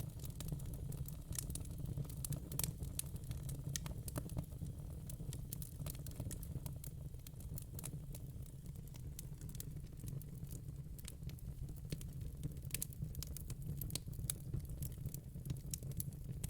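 Wood fire crackling: frequent sharp pops and snaps of burning logs over a steady low rumble.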